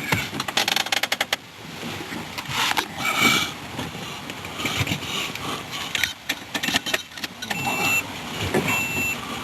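Clicks and rattles of keys and the pickup's door and controls being handled. Near the end the 2003 Nissan Frontier's warning chime starts beeping steadily, about once a second.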